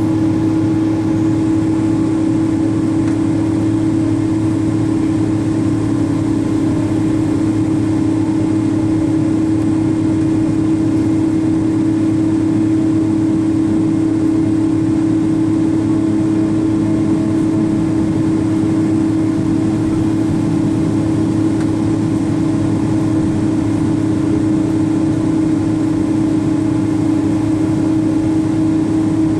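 Steady cabin hum inside a Boeing 777-200, engines and air systems running, with a strong low tone held throughout.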